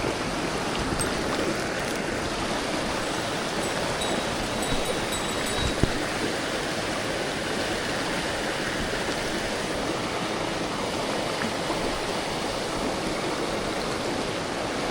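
Mountain stream rushing steadily over rocks, with a single short knock about six seconds in.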